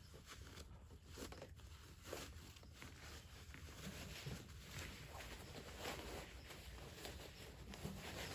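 Faint, irregular rustling and crinkling of a backpacking hammock's nylon fabric and packaging being handled and pulled open.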